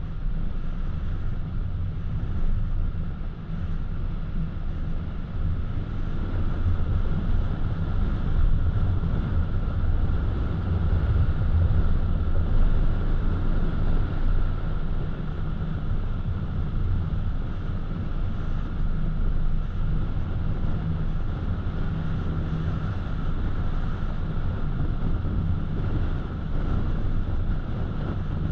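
Car driving on a winding highway, recorded by a dashcam: steady low rumble of road and engine with some wind noise, plus a faint steady whine.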